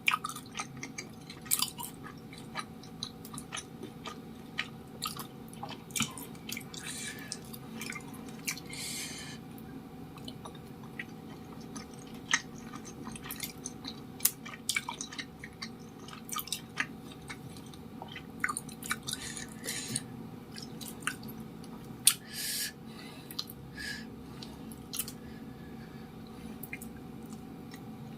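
Close-up chewing of cilok, chewy tapioca-starch balls: irregular wet mouth clicks and smacks, with a few longer, noisier smacks here and there.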